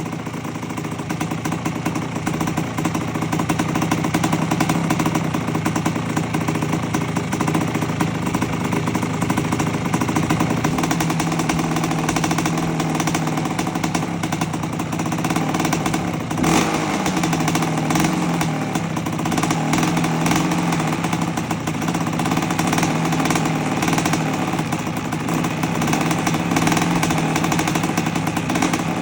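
1984 Honda CR250's single-cylinder two-stroke engine running steadily while being heat-cycled after its rebuild. The throttle is blipped once a little past halfway, and the pitch falls back afterwards.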